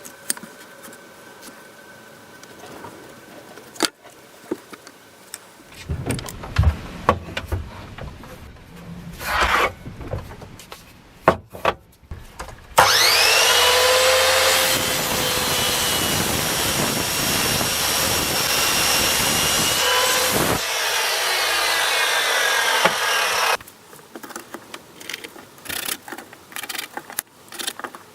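Knocks and scrapes of handling, then a power tool starts with a rising whine, runs loudly for about ten seconds, and stops suddenly, followed by more small clicks.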